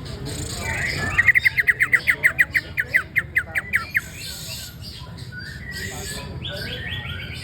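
Cucak ijo (leafbird) singing: a fast, loud run of short down-slurred notes, about seven a second for some three seconds, then softer scattered chirps and twitters.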